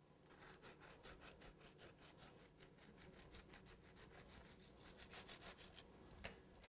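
Faint knife sawing back and forth through cake, a quick, even run of rasping strokes, with one sharper tap near the end.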